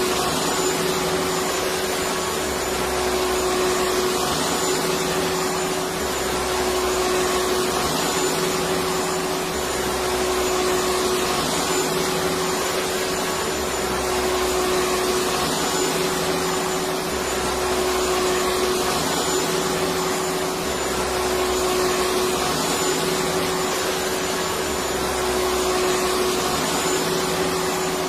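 Electric vacuum cleaner running continuously: a steady hiss of rushing air with a constant motor whine, under a low hum that swells and fades about every two and a half seconds.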